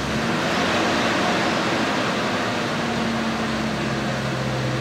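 Nissan RB20DET turbocharged straight-six idling steadily just after a cold start, with an even, unchanging note.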